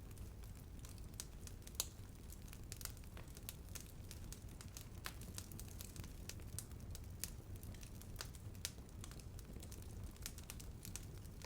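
Wood fire burning and crackling: irregular sharp pops and snaps, one louder pop about two seconds in, over a low steady rumble.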